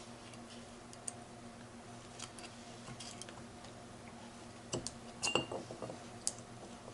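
Light metallic clicks and taps of small gearbox parts being handled: the sliding blocks and spring being fitted into a Ford 2000E gearbox's 1-2 synchro hub. The clicks are scattered, with a quick cluster about five seconds in.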